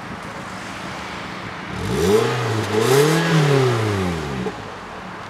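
2015 Toyota Corolla's four-cylinder petrol engine heard at the tailpipe, idling, then revved about two seconds in. The pitch climbs, dips briefly, climbs higher and falls back to idle over about two and a half seconds.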